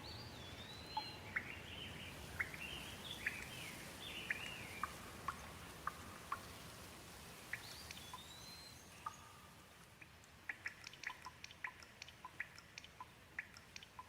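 Gentle rain falling, with scattered drips ticking. A bird sings a run of swooping whistled notes over the first five seconds and once more about eight seconds in. Near the end the drips come quickly, several a second.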